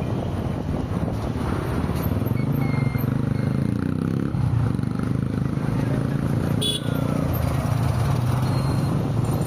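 Road traffic while driving: steady engine hum and road noise from vehicles, the engine pitch shifting a little in the first few seconds, with a brief click about seven seconds in.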